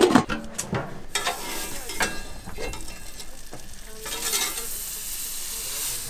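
Portable gas burner being lit: a few sharp clicks in the first second, then the flame catches about a second in and hisses steadily.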